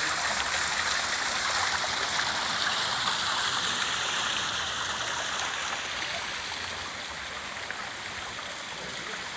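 Waterfall pouring into a pond: a steady rushing of falling water that eases off a little after about six seconds.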